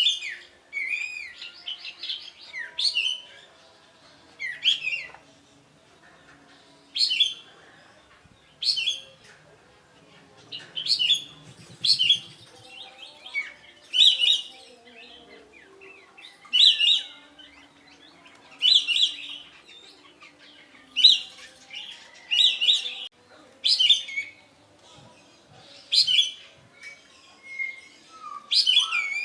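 Kapas tembak songbird singing: short, sharp, high-pitched phrases repeated about every one to two seconds.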